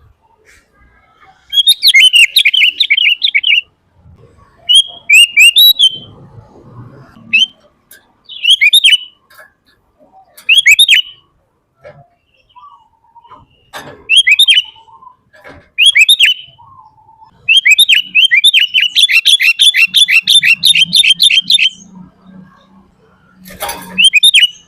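Sooty-headed bulbul singing in bursts of rapid, high chirps. Short phrases of a second or two are separated by pauses, with one longer unbroken run of about four seconds in the last third.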